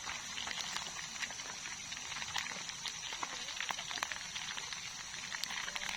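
Steady high-pitched chirring of night insects, with scattered sharp crackles throughout.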